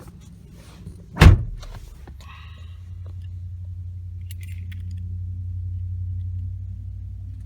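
A pickup truck's door slamming shut with one loud thud about a second in, followed by faint key jingles over a steady low hum.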